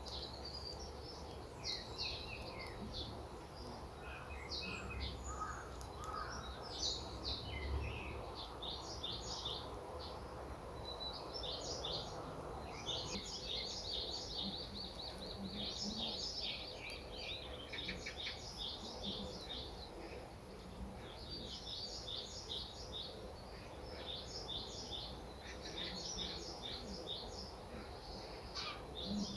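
Small birds chirping and twittering in quick, repeated runs of short calls, over a steady low background noise.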